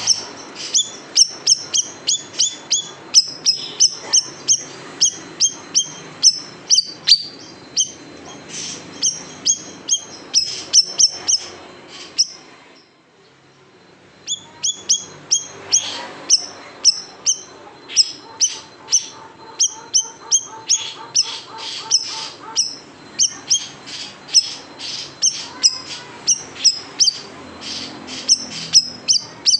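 Siri-siri songbird giving rapid, sharp, high chirps in long runs, about two to three a second, the piercing 'tembakan' (shot) call that keepers use to tutor cage birds. The bird stops briefly near the middle, then resumes.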